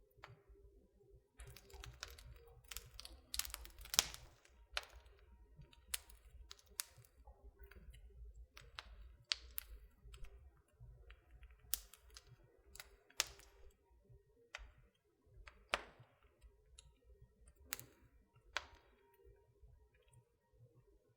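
Wood fire crackling in a fireplace: irregular sharp pops and snaps, the loudest about four seconds in, over a faint low rumble.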